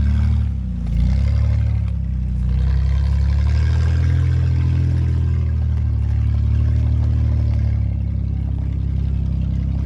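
Off-road 4x4's engine running steadily under load. It dips briefly about a second in, then pulls on again.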